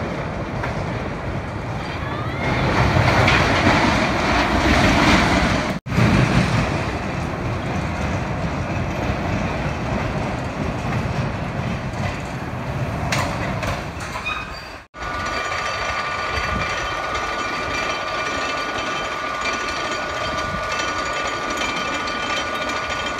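Hurricane wooden roller coaster's train rumbling and clattering along its track, heard in three cut-together stretches. It is loudest a few seconds in, and a steady high ringing tone runs through the last stretch.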